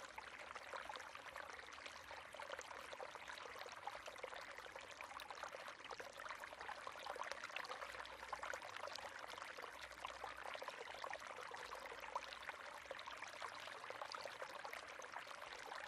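River water running and splashing over stones, a steady dense babble.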